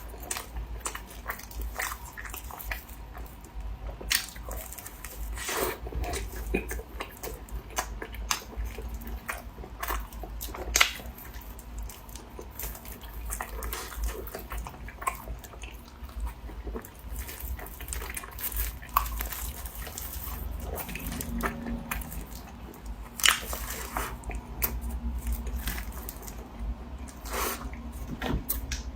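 Close-up eating sounds: biting and chewing, with many irregular sharp crunchy clicks and smacks.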